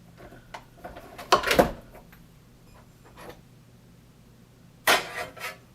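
Hard plastic clunks and clicks from handling a Keurig K-2550 coffee maker's brewer lid and housing: two short loud clusters, about a second and a half in and again near the end, with lighter clicks between.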